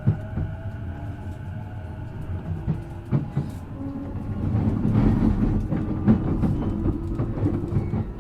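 E233-7000 series electric train running, heard from inside the car: a steady drone from the traction motors with a faint tone held throughout, sharp clicks from the wheels over rail joints, and running noise that grows louder about five seconds in.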